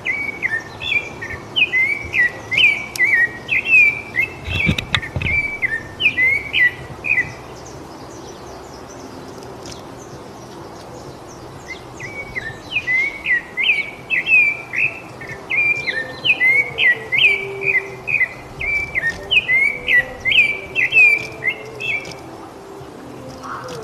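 Rufous-bellied thrush singing: a run of short, quick whistled notes for about seven seconds, a pause of about four seconds, then a second run of about ten seconds.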